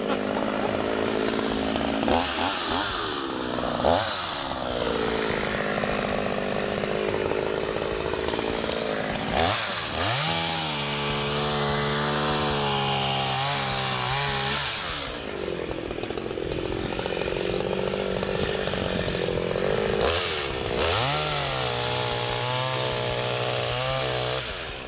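Petrol chainsaw running through a long cut. The engine revs up sharply twice, about ten seconds in and again near the end, and holds at a steady high pitch. In between, its pitch sags and wanders as the chain works in the wood.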